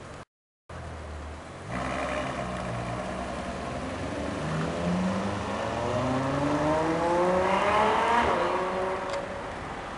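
Ferrari F12berlinetta's 6.3-litre V12 accelerating hard. The engine note climbs steadily in pitch and grows louder over several seconds, is loudest about eight seconds in, then drops in pitch and fades.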